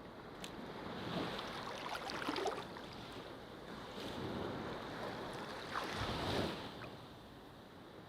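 Ocean waves washing onto a beach, two surges that swell and ebb, one peaking about two seconds in and another near six seconds.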